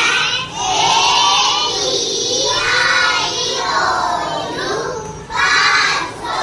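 A class of young girls chanting a grammar rhyme in unison, loud and sing-song, in short phrases with brief breaks between them.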